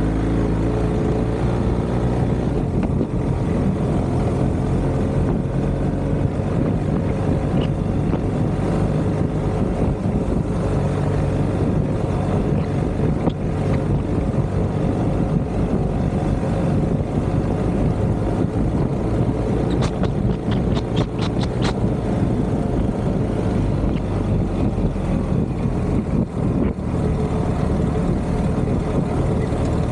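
BMW R1250GS Adventure's boxer-twin engine running steadily at cruising speed on a dirt track, under dense road noise. A quick run of about six sharp ticks comes a little over two-thirds of the way through.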